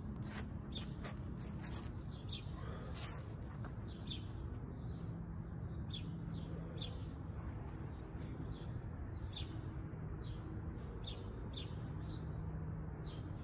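Small birds chirping, short high chirps about once or twice a second, over a steady low background hum.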